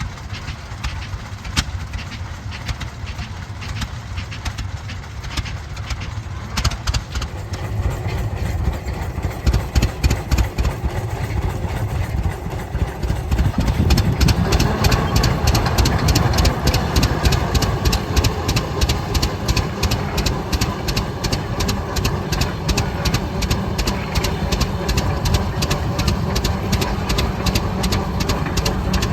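Antique tractor engine running with a slow, even beat of firing strokes. It grows louder and fuller about halfway through.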